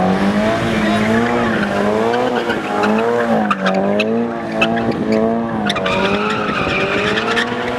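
Car doing a burnout: the engine is held at high revs and the tires screech, the pitch rising and falling about once a second as the wheelspin varies. Sharp pops come in the middle.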